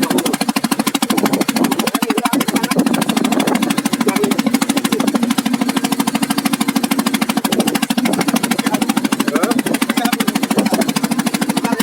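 Boat engine running steadily with a rapid, even pulse, and faint voices now and then beneath it.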